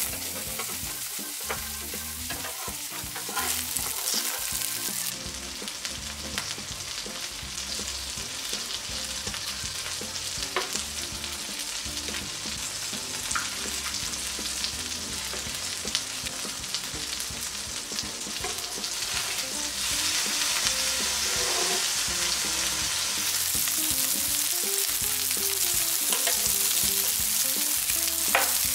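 Egg-battered pollack fillets sizzling in hot oil in a nonstick griddle pan, with occasional sharp clicks and scrapes of a metal spatula and chopsticks turning them. The sizzle grows louder about two-thirds of the way through.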